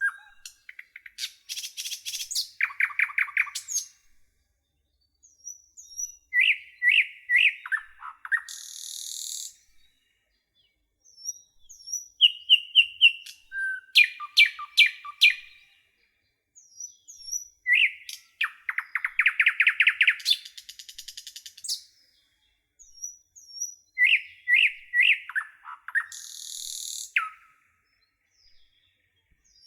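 Songbird song: short phrases of clear chirps, quick trills and buzzy high notes, repeated about every six seconds with silent gaps between.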